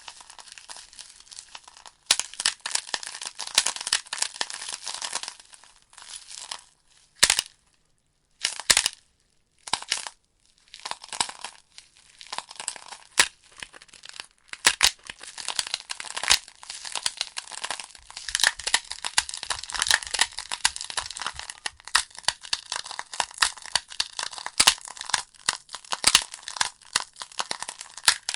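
Logs burning in a fireplace, crackling with dense snaps and pops. A few seconds in, the crackle thins to a few isolated pops with near-silent gaps, then picks up again.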